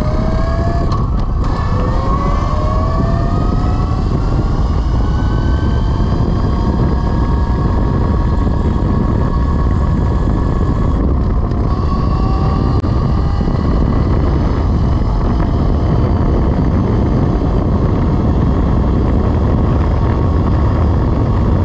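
Velimotors VMX12-F 12 kW electric motorcycle accelerating under load: the motor's whine rises in pitch, breaks off briefly about a second in and climbs again from a lower pitch as the four-speed manual gearbox is upshifted, then holds steady at speed, with another short break around eleven seconds in. Heavy wind rush on the microphone runs underneath.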